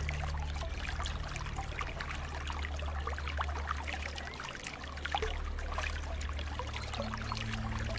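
Flowing water trickling and splashing steadily, a dense patter of small splashes over a low, steady rumble.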